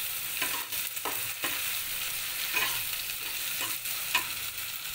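Chopped onion and tomato sizzling steadily in hot oil in a kadai, with a spatula scraping and knocking against the pan every second or so as the mixture is stirred; one knock about four seconds in is the sharpest.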